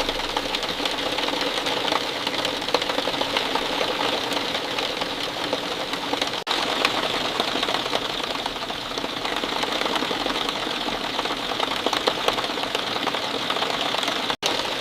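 Steady, heavy rain, a dense pattering of many drops. It cuts out for an instant twice, about six seconds in and near the end.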